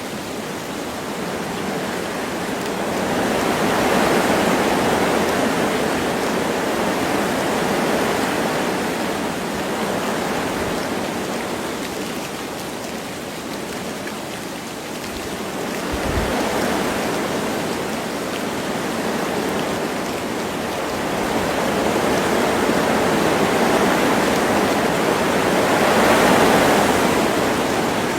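Wind gusting through forest trees with light rain falling, a steady rushing that swells and eases in slow gusts every ten seconds or so.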